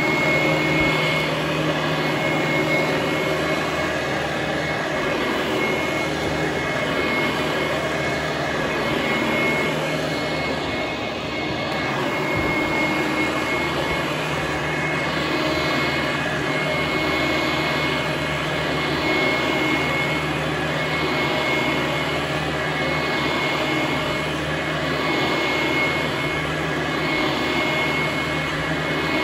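Vintage Hoover Conquest commercial direct-air upright vacuum cleaner running on carpet: a steady, really noisy motor-and-fan whine that sounds like a helicopter. Its level swells and dips every few seconds.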